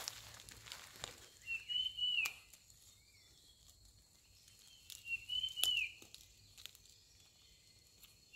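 A bird gives a short whistled note that rises and falls, twice about three and a half seconds apart, with a fainter note between them. Under it come scattered scrapes and sharp knocks from digging in soil and dry leaf litter.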